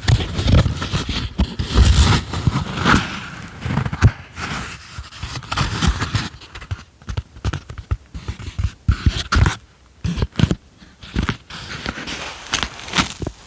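Close-miked ASMR tapping and handling of small objects: irregular quick taps and clicks mixed with scratching and rustling.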